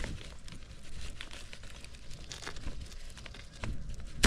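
Greenhouse plastic sheeting crinkling and rustling as it is handled, with scattered light clicks. A sharp knock comes at the very end.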